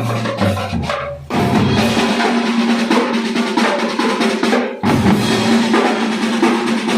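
Marching band drum section playing: deep bass drum beats at first, then after a short break a dense pattern of fast snare-drum strokes and rolls, broken off briefly again partway through.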